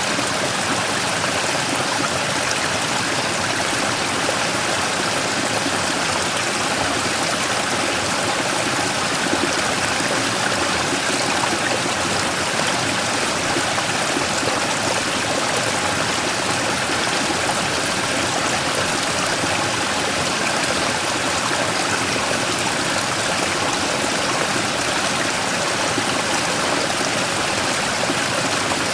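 Mountain stream running steadily over and around a large rock: continuous splashing and rushing water, even throughout.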